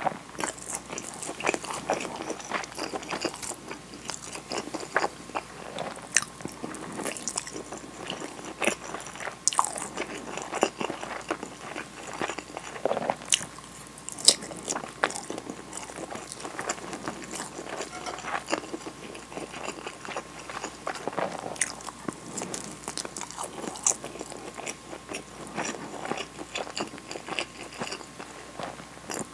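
Close-miked chewing and mouth sounds of a person eating a nori-wrapped rice ball and sweet rolled omelette. The chewing is irregular and steady, with many small wet clicks.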